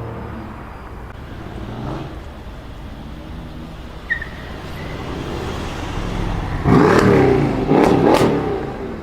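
A car engine idling with a low rumble, then revved hard twice near the end with a loud exhaust, the pitch rising and falling on each rev.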